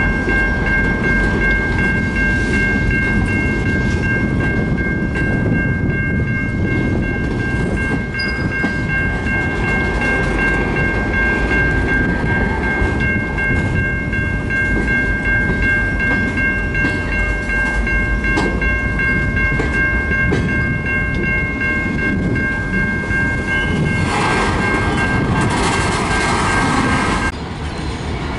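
Train rolling past at close range, a steady rumble with a sustained high-pitched ringing of several notes at once above it. A hiss joins near the end, then the ringing cuts off suddenly.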